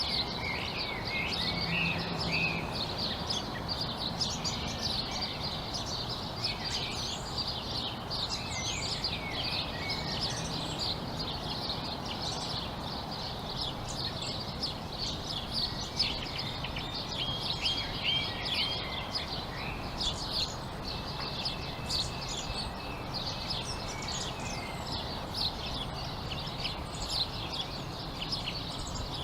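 Many small birds chirping and twittering together in a dense, continuous chorus, over a steady background noise.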